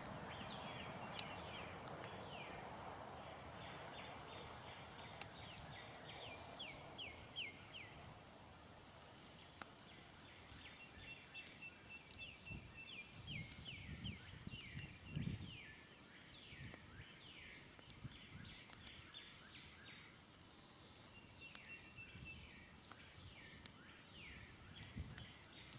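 Wood campfire crackling with scattered sharp pops, while a songbird sings repeated quick runs of short downward-slurred notes. A soft rushing noise fades away over the first several seconds, and a few low thumps come around the middle.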